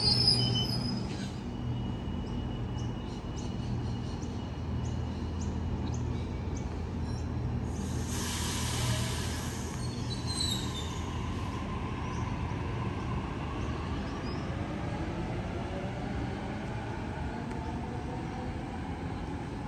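Electric suburban train running through the station with a steady low hum, its wheels giving short high squeals on the rails near the start and again about ten seconds in. A brief hiss comes about eight seconds in.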